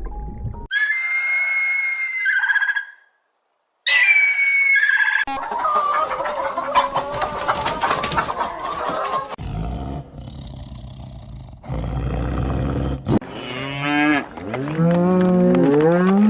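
A run of farm animal calls cut together abruptly: high-pitched poultry calls, with a brief silence between two of them, and a dense stretch of many calls at once. Near the end, several low gliding calls of cattle mooing.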